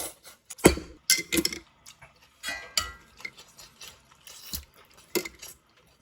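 Irregular sharp clicks, knocks and clinks of tableware and utensils, with one ringing clink about three seconds in.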